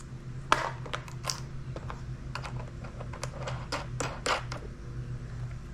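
Scattered light clicks and taps of sled pieces and bolt hardware being handled and fitted together during assembly, over a steady low hum.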